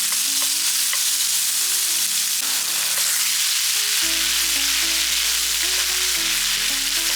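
Ginger garlic paste frying in hot oil in a pan, a steady sizzle with some stirring, under background music that picks up a bass line about four seconds in.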